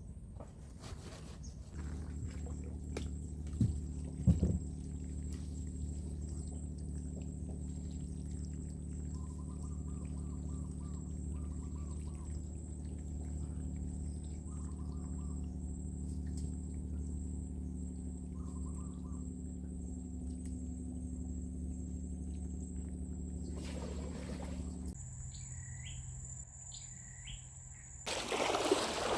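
Small boat engine running with a steady low hum, with short bird chirps over it. The hum stops abruptly about 25 seconds in, leaving bird calls, and a burst of rushing noise comes near the end.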